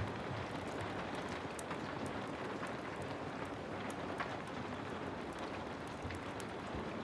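Heavy rain falling in a steady hiss, mixed with a wood fire crackling in many small, scattered pops.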